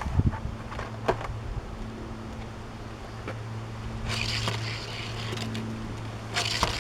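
Hot Wheels Sky Boat die-cast toy car running on a plastic Hot Wheels track. There are a few clicks in the first second and clattering rattles about four seconds in and again near the end, over a steady low hum.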